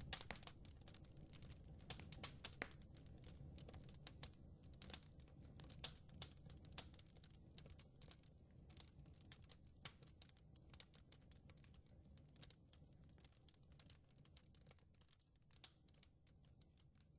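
Faint crackling wood fire: irregular sharp snaps and pops, several a second, over a low steady rumble, gradually fading out.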